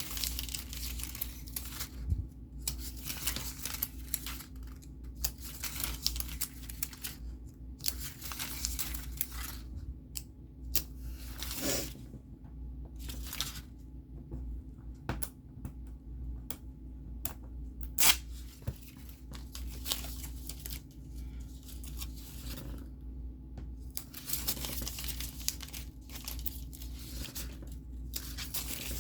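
Paper and packaging being handled by hand: repeated rustling and tearing sounds with a few sharp clicks, over a faint steady low hum.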